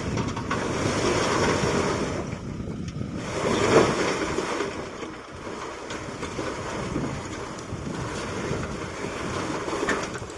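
Stones sliding and tumbling out of a tipped tractor trolley as the tractor creeps forward, a rushing, rattling noise that swells to its loudest about four seconds in.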